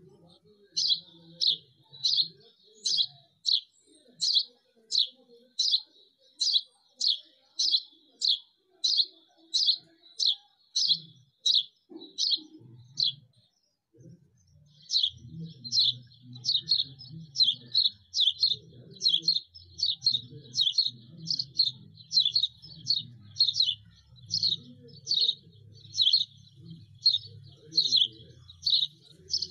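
A small bird chirping over and over at a steady pace of about two chirps a second, with a short break around the middle.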